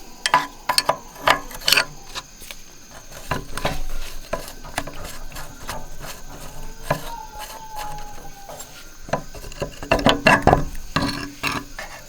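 Hand tools knocking, clinking and scraping on metal machine parts, in irregular clusters of sharp clicks that are loudest near the start and again about ten seconds in.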